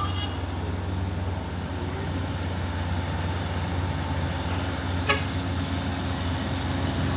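Heavy truck's diesel engine running steadily with a low drone, and a single sharp click about five seconds in.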